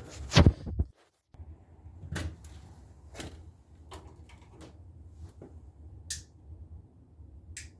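A loud thump about half a second in, then scattered knocks and clicks of things being handled, over a low steady hum.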